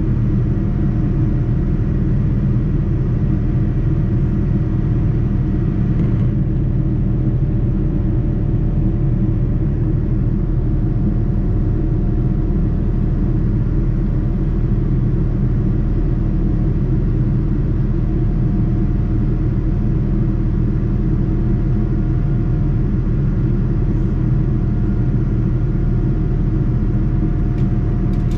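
Steady, even rumble of airliner cabin noise inside a Boeing 787-9, with a few faint steady tones over it.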